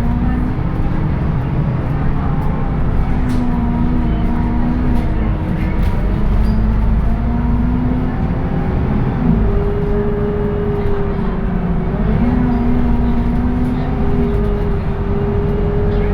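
Scania K230UB city bus under way, heard on board: a steady diesel drone with whining tones that step up and down in pitch several times as the ZF automatic gearbox works through its gears. A higher whine sets in about ten seconds in and holds.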